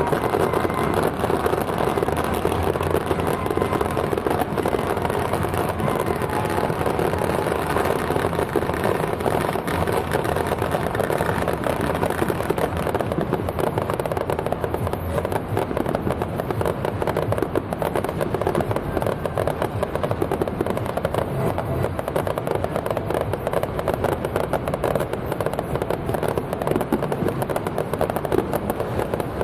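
Firecrackers going off in a long, continuous dense crackle.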